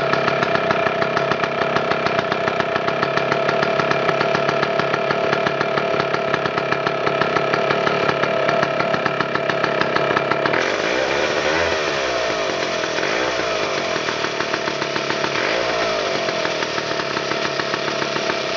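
Chainsaw's two-stroke engine running steadily; about ten seconds in the sound changes and the pitch wavers up and down, as though the engine speed is hunting.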